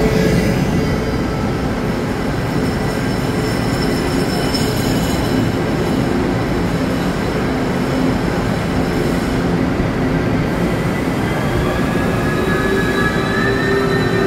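Tze-Chiang express train running into the station: a steady rumble of the train with thin squealing tones that grow stronger near the end as it slows to stop.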